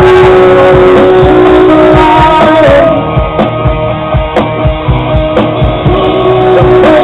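Live rock band playing electric guitars, bass and drums, with long held notes. About three seconds in it drops to a sparser passage of steady drum hits, then comes back in full near the end.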